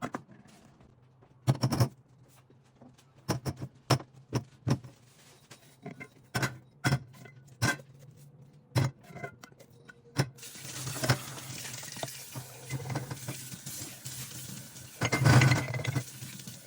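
Glass and dishes clinking and knocking as they are handled, a dozen or so separate strikes. About ten seconds in, a kitchen tap starts running water into the sink, a steady rush that grows louder near the end.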